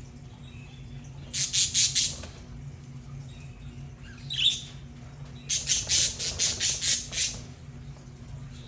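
Budgerigars giving harsh, rapid squawking calls in two bouts, a short one about a second and a half in and a longer one from about five and a half seconds, with a single short squeak between them. A steady low hum runs underneath.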